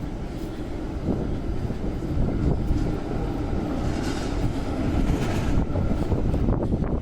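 City street ambience in the rain: a steady low rumble of traffic, with a brief rise of hiss around the middle.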